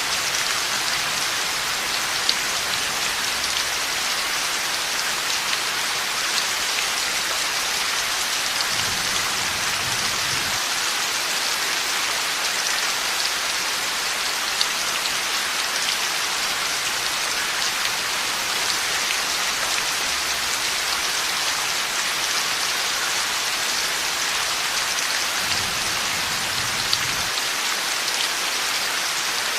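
Heavy rain falling steadily in a dense, even hiss, with a faint low rumble of distant thunder twice.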